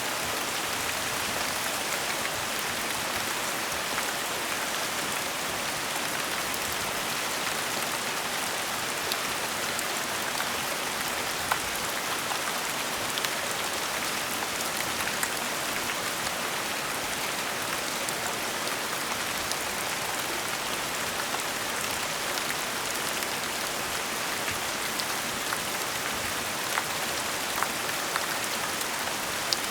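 Steady gentle rain falling, an even hiss with scattered individual drops ticking sharply on a surface.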